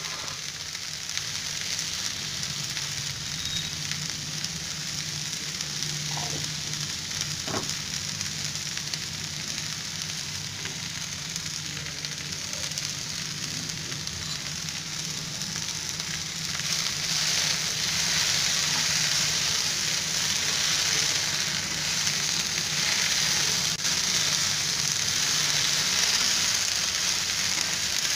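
Chopped okra sizzling as it fries in coconut oil in a kadai, being stirred with a spatula. The sizzle gets louder about two-thirds of the way through.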